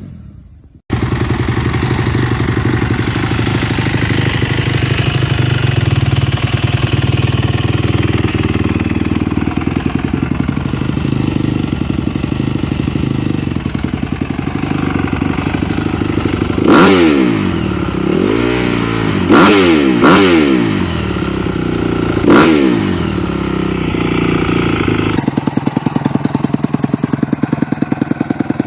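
Honda CRF250 dirt bike's single-cylinder four-stroke engine running through an aftermarket exhaust. It idles steadily, is blipped four times in quick rising-and-falling revs about two-thirds of the way through, and then settles into a choppier, pulsing idle near the end.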